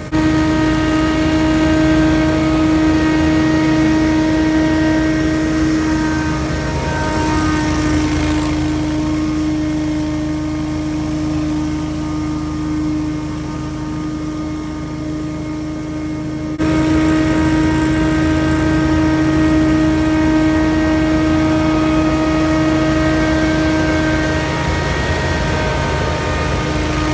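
Scag Windstorm stand-on leaf blower running steadily: an engine hum under a steady fan whine. The sound shifts abruptly about two-thirds of the way through.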